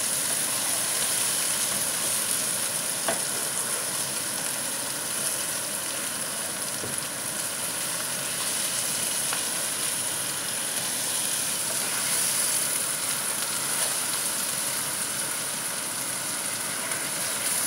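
Sliced onions with garlic, chili and ginger sizzling steadily in hot oil in a non-stick frying pan, stirred now and then with a spatula that gives a few light scrapes against the pan.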